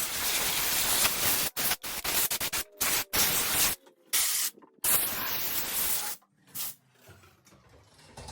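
Compressed-air blow gun hissing in short blasts, triggered on and off again and again while blowing dust and debris out of an engine bay; the blasts stop about six seconds in.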